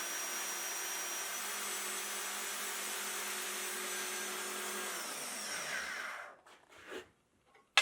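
A motor-driven machine running steadily with a hissing whir, then winding down and stopping about six seconds in; a sharp knock comes right at the end.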